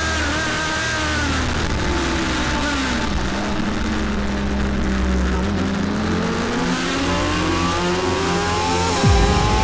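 Onboard Kawasaki ZX-6R 600cc inline-four race engine over rushing wind. The revs fall as the bike slows and shifts down for a slow corner, stay low through the corner, then climb steadily under hard acceleration on the exit, with an upshift near the end.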